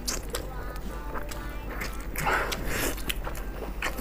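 Wet chewing and mouth clicks from someone biting into fatty pork intestine, over background music. A louder wet noise comes about two seconds in.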